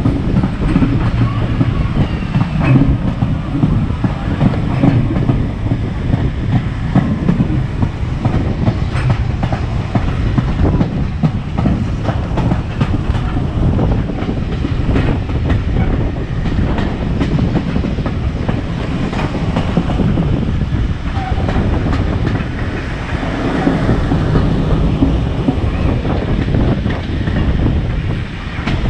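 Heritage railway train running along the line, with a steady low rumble of the carriages and frequent clicks and rattles from the wheels on the track.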